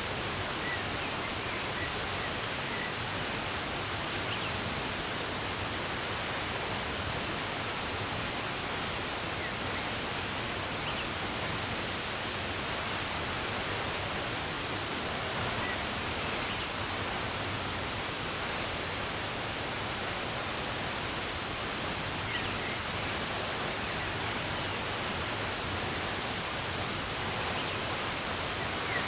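Steady, even rush of running water, with a few faint short bird chirps now and then.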